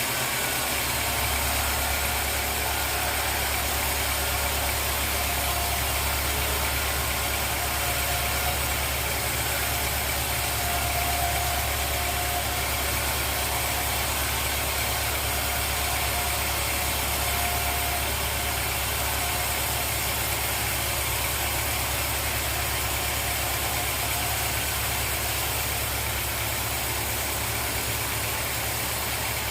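Sawmill machinery running steadily, a continuous engine-like drone. A deep low hum strengthens about a second in and then holds even.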